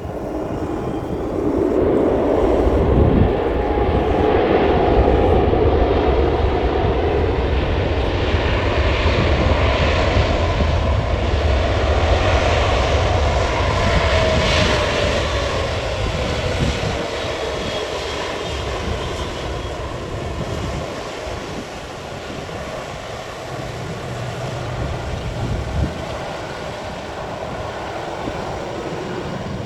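Airliner's engines passing by. The noise swells about two seconds in and stays loud through the first half, with a whine gliding down in pitch around the middle, then fades gradually.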